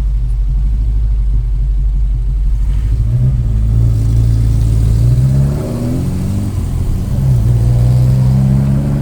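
Car engine running at a low, steady rumble, then speeding up twice: its pitch climbs about three seconds in, falls back around five and a half seconds, and climbs again near seven seconds.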